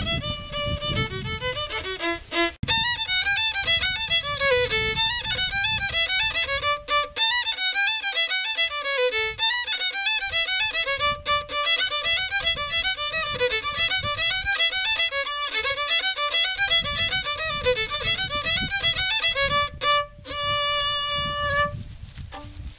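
Solo violin playing: a few held and stepping notes, then a long run of quick notes, closing on held notes and stopping shortly before the end.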